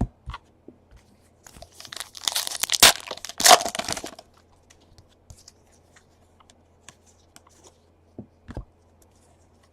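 A baseball card pack wrapper being torn open, a crinkling rip lasting about two seconds, followed by a few faint clicks as the cards are handled.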